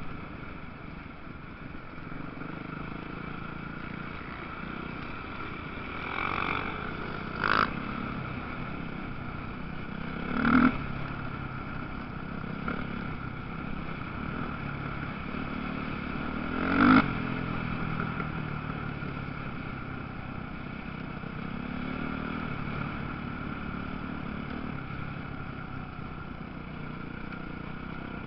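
Motocross dirt bike engines running and revving, with three brief, sharp louder moments as a bike revs hard or passes close.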